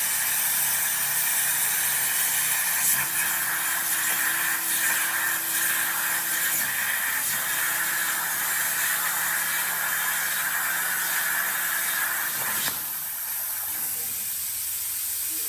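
CNC plasma cutter cutting brushed stainless steel sheet: a steady hiss of the torch with a low machine hum under it. About three-quarters of the way through, the hum stops and the sound drops a little, leaving a plain hiss.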